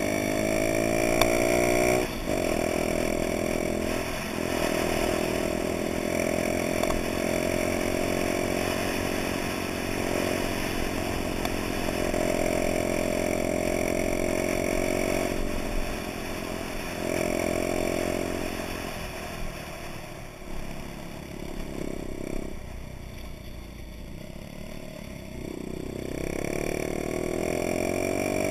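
Honda Dax minibike's small single-cylinder engine running under way, rising in pitch for the first two seconds, then a short break and steadier running. In the last third it drops lower and quieter as the throttle eases, then picks up again near the end.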